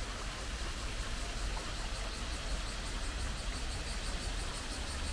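Insects chirping in a high, even pulse of about five beats a second over a steady low rumble of outdoor noise.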